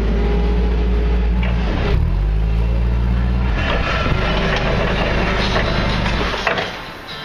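Backhoe engine running with a steady, low drone, then dropping away sharply near the end.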